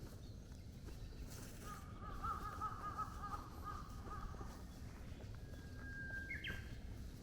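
A bird calling in a wavering, warbling series for a couple of seconds, then a thin steady whistled note that jumps up in pitch near the end, over a low outdoor rumble.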